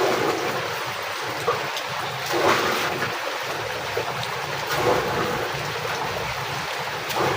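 Heavy rain falling steadily, with a few brief louder spatters through it.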